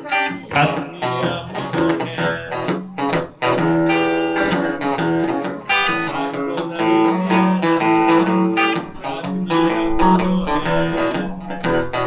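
Electric guitar, a Telecaster played through a Roland JC-120 amplifier, playing a solo instrumental passage of picked notes and chords in a blues song.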